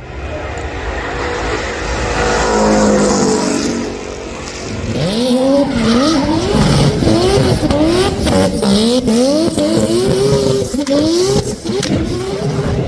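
Race car engine running hard: a steady note for the first few seconds, then revved in quick repeated climbs and sharp drops, about one and a half a second.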